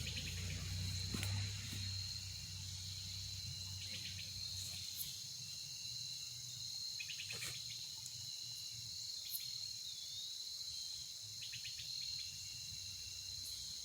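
Steady evening chorus of crickets, a continuous high shrill trill, with a few short bird chirps and one falling call about halfway through.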